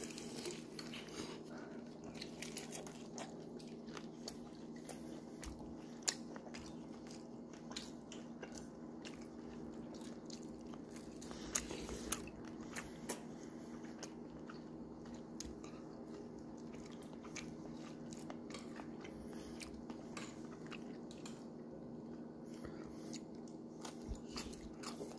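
Close-up eating sounds: chewing and crunching of crisp pan-fried birria tacos, with many small crisp clicks and a few louder snaps around the middle. A steady low hum runs underneath.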